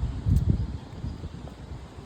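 Wind buffeting the microphone: an irregular low rumble that gusts loudest about a third of a second in.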